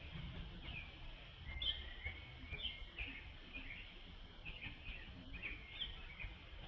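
Short high-pitched animal chirps, several every second, over a steady low rumble of outdoor noise.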